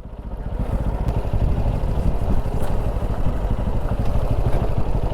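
A motor vehicle's engine running with a low, fast-pulsing rumble that builds up over the first second as it pulls away, then holds steady.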